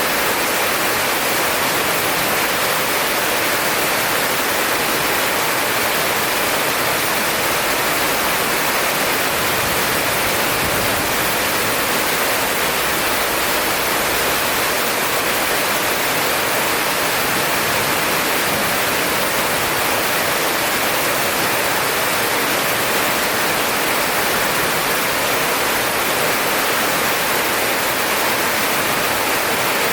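Heavy rain falling as a steady, dense hiss that does not let up.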